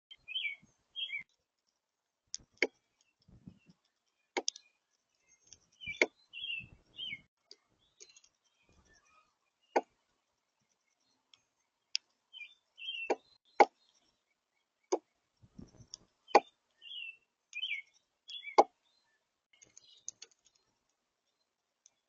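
Birds at a seed feeder: short chirps, often in pairs, mixed with a dozen or so sharp clicks and taps and a few brief low rustles.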